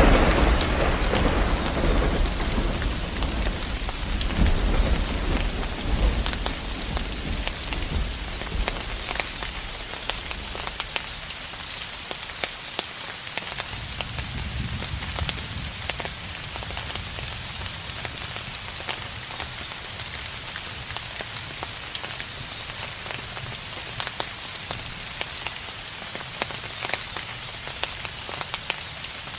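Steady rain falling, with many small drop ticks. A roll of distant thunder rumbles at the start and fades away over the first several seconds, and a fainter low rumble returns about halfway through.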